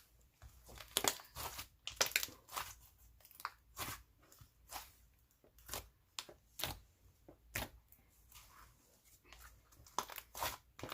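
Clear-and-white glue slime being pressed, poked and stretched by hand, making irregular sharp clicks and pops.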